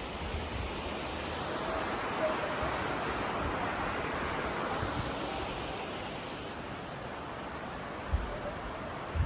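Rushing river water in a rocky gorge, a steady rush that swells for a few seconds and then eases, with a few low bumps of wind or handling on the microphone near the end.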